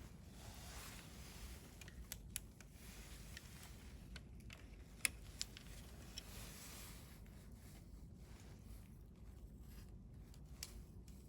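Wood campfire burning quietly: a soft hiss with several sharp crackles and pops, the loudest about five seconds in.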